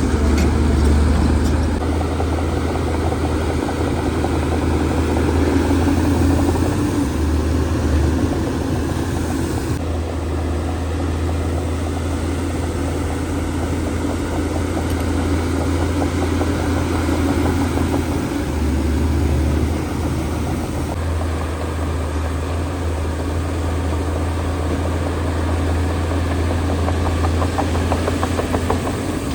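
Diesel engine of heavy earthmoving machinery running steadily, a continuous low drone that shifts abruptly a few times.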